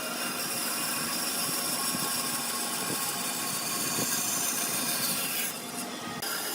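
A woodworking power tool running steadily and working wood, with a short change in the sound near the end.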